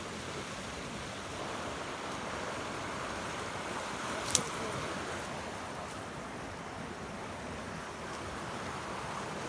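Steady rush of a fast-flowing stream pouring through a freshly removed dam site, with one sharp click about four and a half seconds in.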